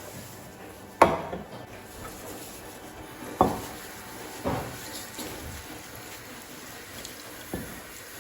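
Kitchenware being handled and set down on a counter: a handful of separate knocks and clinks with a short ring, the first and loudest about a second in.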